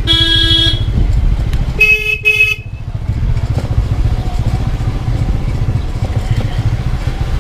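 Vehicle horn honks once, then gives a higher-pitched double honk about two seconds in, over the steady low running of a motorcycle engine.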